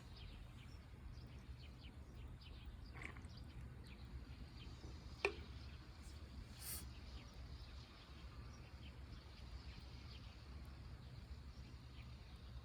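Quiet outdoor background with a steady low hum, scattered faint ticks, one sharp click about five seconds in and a brief hiss a second or so later.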